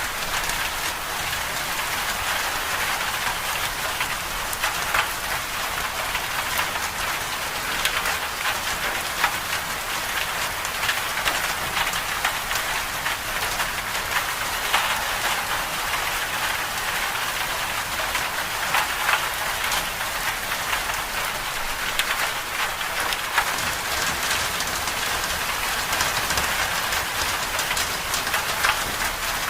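Steady winter-storm ambience: an even hiss of precipitation striking a surface, with many small ticks scattered through it.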